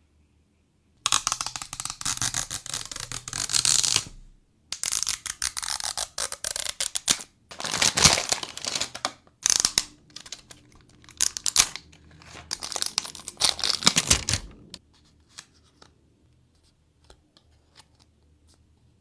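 Plastic toy packaging being torn open and crinkled in several noisy bursts with short pauses between. It stops about two thirds of the way through, leaving only faint small clicks.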